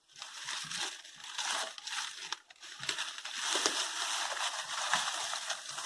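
Dry straw and palm fronds rustling and crackling irregularly as they are pulled off and moved.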